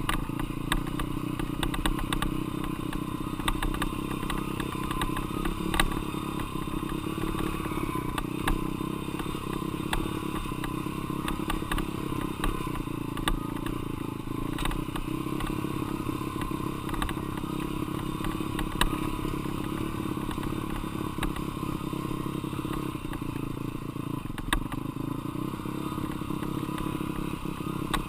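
Dirt bike engine running at a fairly steady pitch, with frequent short knocks and rattles over it.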